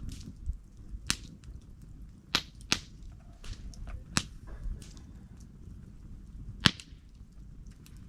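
Wood campfire crackling, with about five sharp pops among smaller ticks over a low, steady rumble of the flames. The loudest pop comes about two-thirds of the way in.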